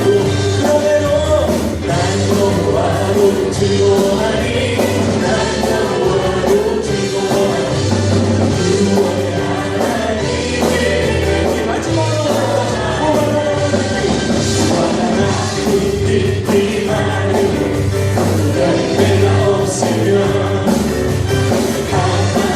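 Christian worship song by a praise team: voices singing over a band with bass and a steady drum beat.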